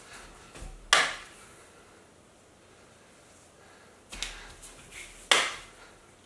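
Two sharp plastic pops about four seconds apart, each led in by smaller knocks and rustles: a wide bubble-tea straw being jabbed down through the cup's sealed plastic lid film.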